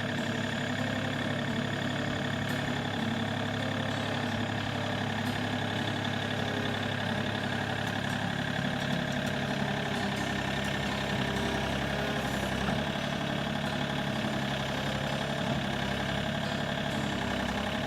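Tractor engine running steadily at idle-like speed while the loader tractor is worked, with an even drone that does not change.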